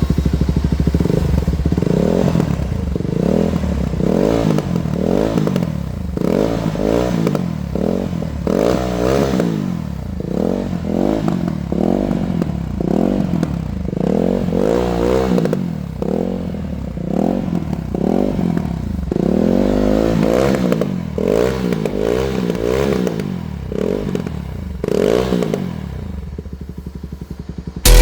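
Jawa 42 Bobber's single-cylinder engine breathing through a slip-on exhaust, revved over and over in quick blips that rise and fall in pitch, dropping back toward idle near the end.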